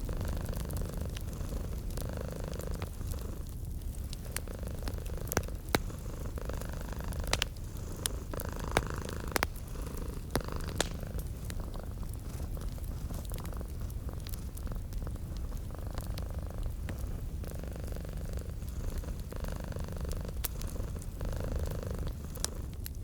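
Domestic cat purring steadily, its rumble swelling and easing with each breath, over the sharp pops and crackles of a wood fire.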